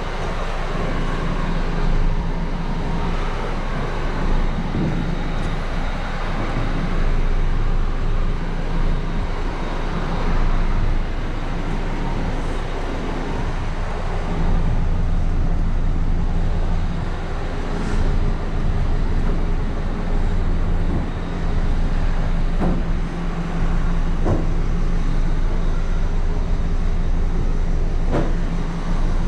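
Steady low mechanical drone, engine-like, with a few light clicks near the end.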